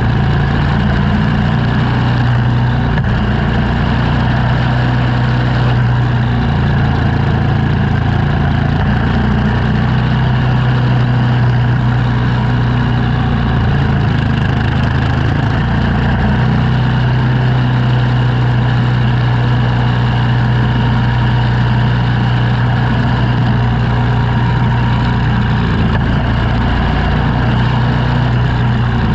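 An engine running steadily with a constant low hum, shifting pitch slightly a few times.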